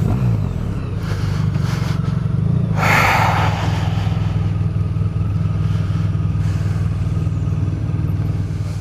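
Motorcycle engine running steadily at low revs, with a short burst of noise about three seconds in.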